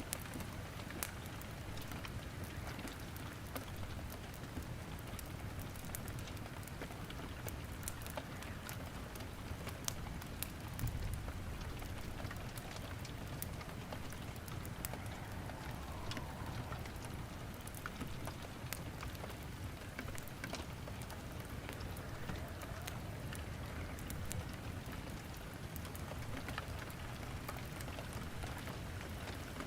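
Steady rain with many sharp, irregular crackles and pops of wood burning in a fireplace.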